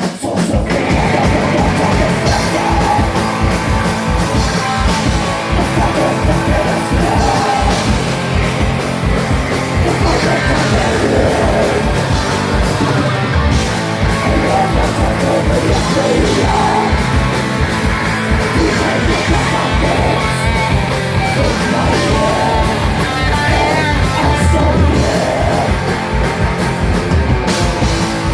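A live heavy rock band playing loud and full, with a steady drum beat and shouted vocals.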